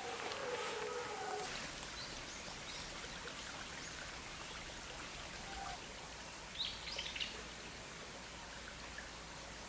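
Outdoor forest ambience: a steady hiss, with a few short bird calls at the start and a quick cluster of sharp, high chirps about two thirds of the way through.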